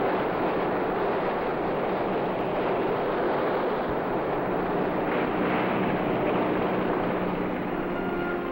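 Steady rush of water and wind over the low hum of a boat's engine running at an even pace.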